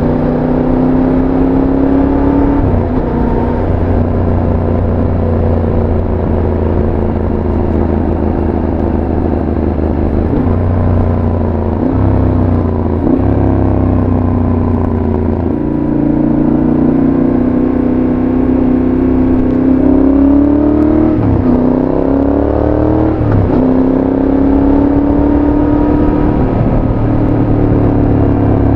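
Yamaha Tracer 7's 689 cc parallel-twin engine running through a full GPR aftermarket exhaust with its dB-killer fitted, heard while riding. The engine note rises and falls with the throttle, and several quick drops in pitch come with gear changes.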